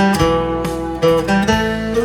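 Solo acoustic guitar playing, strummed and picked chords with the notes left ringing, a new attack about every half second.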